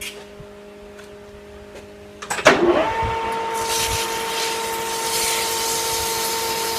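Metal lathe spindle starting up about two seconds in and then running with a steady whine, joined about a second later by a high hissing scrape as a deburring tool touches the edge of the spinning 1018 cold-rolled steel part.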